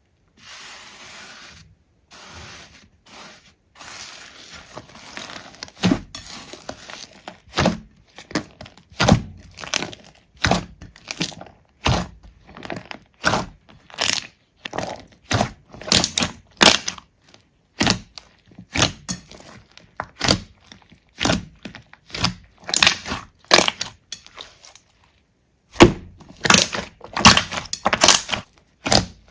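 Big slime being squeezed and worked by hand: soft squishing at first, then a run of sharp pops and crackles, roughly one or two a second, as the slime is pressed and folded. A short pause comes a few seconds before the end, and the pops are loudest just after it.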